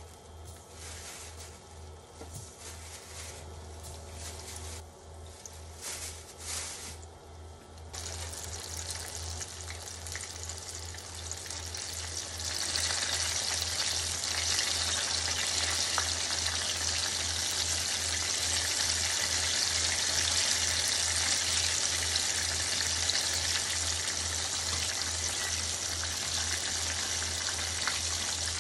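Starch-coated eggplant pieces frying in hot oil in a frying pan: a steady sizzle that grows louder about 8 seconds in and again about 12 seconds in as more pieces go in. Before that, the sizzle is faint under the rustling of a plastic bag. A steady low hum runs underneath.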